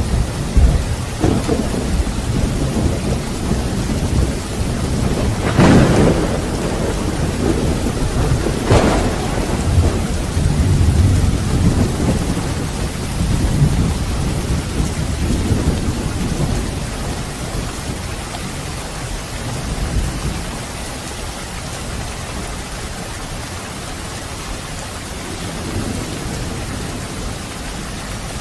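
Steady heavy rain with rolling thunder. Two sharp cracks of thunder come about six and nine seconds in, and the low rumbling dies down through the second half, leaving mostly the hiss of the rain.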